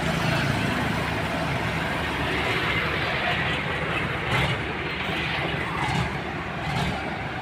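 Heavy diesel engine running steadily with a low rumble, from the bulldozer or the truck carrying it.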